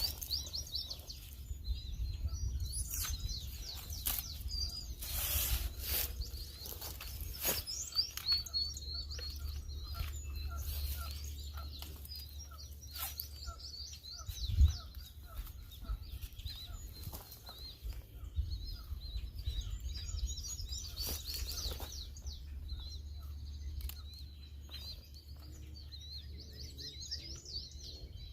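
Small birds chirping and twittering continuously over a steady low rumble, with scattered light clicks and one sharp thump about halfway through.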